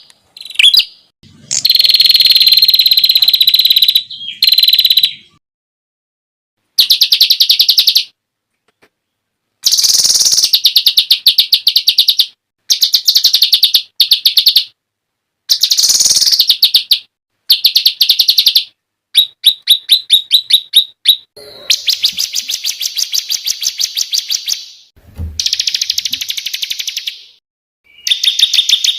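Songbird song made of rapid-fire 'tembakan' phrases: bursts of fast, sharp repeated notes, each lasting one to three seconds and broken by short silences, with a longer pause about five seconds in. The longest, densest runs come near the start and in the last third.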